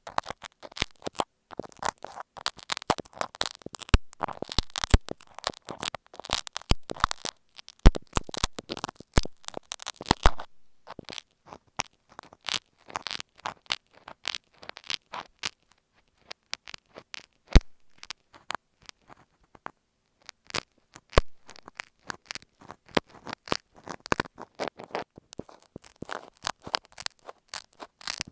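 Sewing pins scratching and tapping on masking tape wrapped over an earphone microphone: close, dense crackly scratches and sharp clicks, with a few brief pauses.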